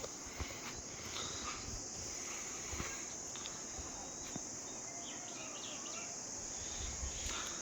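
Insects, crickets or cicadas, trilling in a steady, continuous high-pitched chorus.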